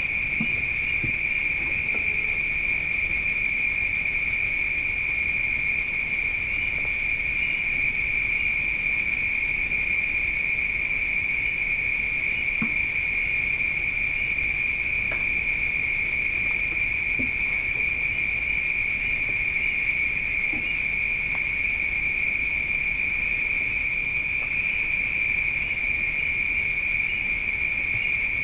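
Night insects chirring without a break, making two steady high-pitched trills, one higher than the other, with a fine rapid pulsing; a few faint ticks sound now and then beneath them.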